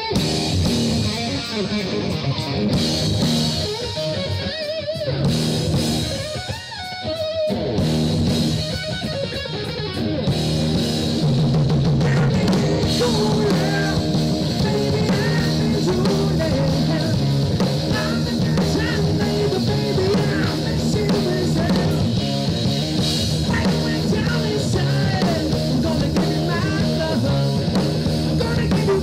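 Live rock band playing: guitar carries a sparser opening, then drums and bass come in fully about ten seconds in and the whole band plays on steadily.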